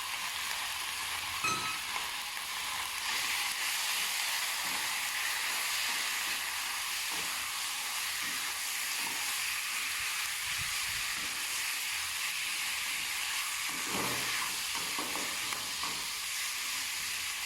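Chicken pieces frying with turmeric in hot oil in a pan: a steady sizzling hiss, with light knocks of a spoon stirring now and then, several of them close together near the end.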